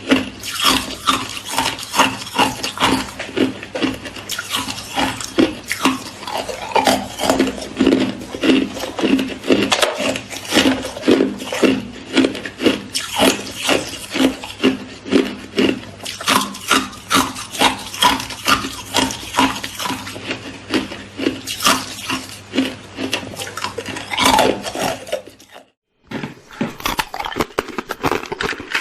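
Hard ice being chewed close to the microphone: rapid, repeated crunches and crackles, several a second. There is a brief break near the end before the crunching resumes.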